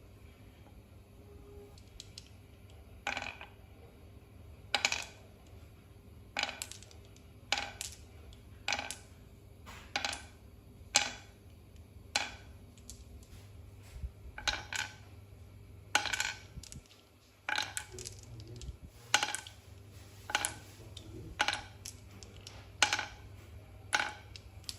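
Small hard objects clinking sharply one at a time, about once a second, each with a short ring, over a faint steady low hum.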